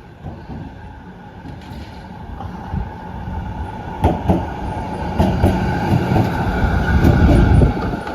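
Z3-class tram approaching and passing, its running noise growing louder to a peak near the end. Sharp clicks from its wheels crossing rail joints start about four seconds in.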